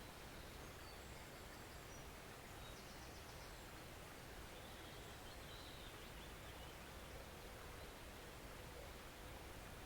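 Faint steady rush of a forest stream, with a few high bird chirps and a short rapid trill about three seconds in.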